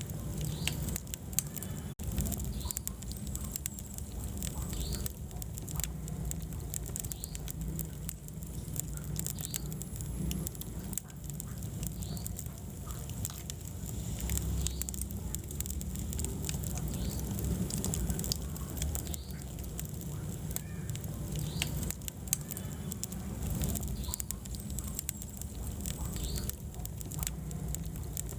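Wood fire burning in a fireplace: a low steady rumble of flames with frequent sharp crackles and pops, and now and then a faint short squeak or hiss from the burning wood.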